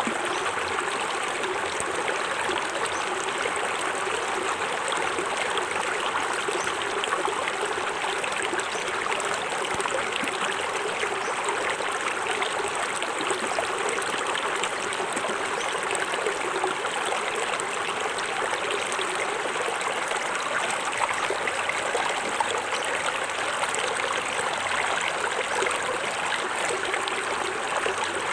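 Small forest waterfall: water splashing and running steadily over rocks into a stream, with no let-up or change.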